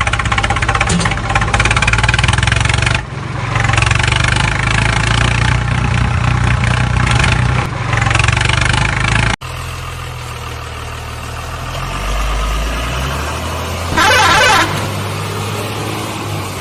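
Heavy vehicle engines running steadily. An abrupt cut about nine seconds in leads to a quieter running engine, with a short, louder burst about fourteen seconds in.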